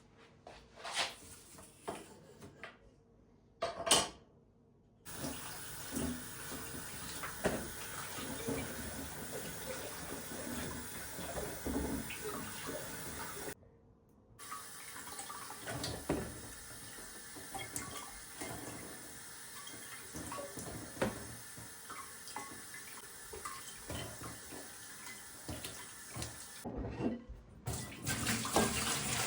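Kitchen tap running into a sink, a steady rush of water with light knocks and clatter of things being handled under it; it starts about five seconds in after a few quiet clicks and a sharp knock, and cuts out briefly twice.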